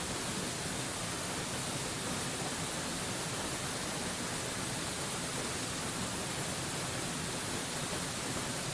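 Mountain waterfall rushing in a steady, even hiss with no change or breaks.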